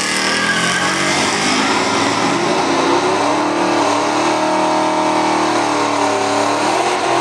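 Two street vehicles, a small Chevy S10 pickup and a Chevy Trailblazer, accelerating at full throttle down a drag strip. The engine note climbs, drops about six seconds in, and climbs again near the end.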